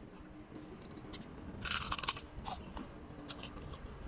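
Close-up eating sounds: a person chewing food with wet clicks and crunches, the loudest burst of crunching about one and a half to two seconds in.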